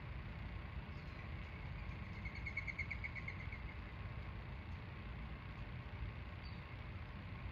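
A small bird gives a rapid trill lasting about a second and a half. Under it runs a steady low rumble of distant traffic, with a few faint short chirps around it.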